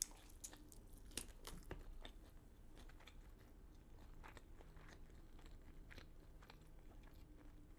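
Faint chewing with scattered soft crunches and mouth clicks, a person eating crunchy food.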